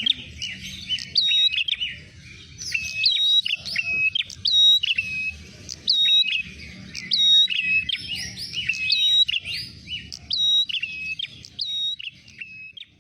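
Prenjak merah calls used as a lure sound: rapid, repeated chirps, each a sharp sweep ending in a short steady whistle, with a higher and a lower note alternating. A low rumble runs underneath.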